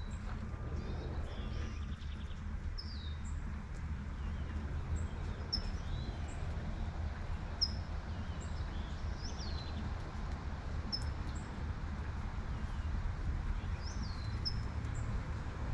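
Light rain falling steadily over a low rumble of distant traffic, with songbirds giving short, high chirps every second or two, some of them falling in pitch.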